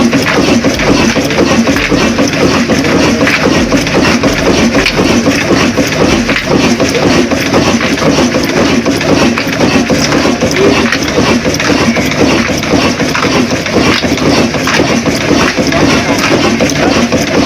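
Old desi diesel engine running steadily and loudly, with a rapid, continuous firing clatter.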